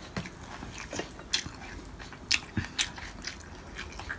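Close-up chewing of crispy fried dried fish (daing na galunggong), with several short, sharp crunches spread through the soft mouth sounds.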